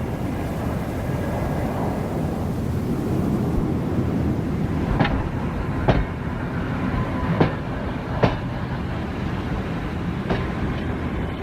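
Train running on the rails: a steady rumble of wheels and carriages, with a few sharp clacks from about five seconds in as the wheels pass over rail joints.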